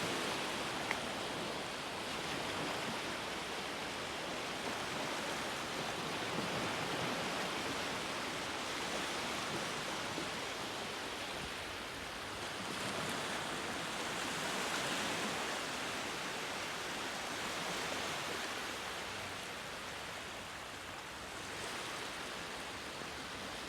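Waves washing in: a steady rush of water that slowly swells and eases.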